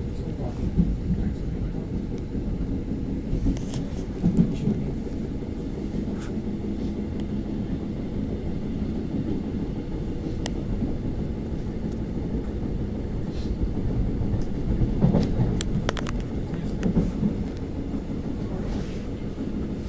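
Gyeongui–Jungang Line commuter train heard from inside the carriage: a steady low rumble of the train running along the track, with a few sharp clicks.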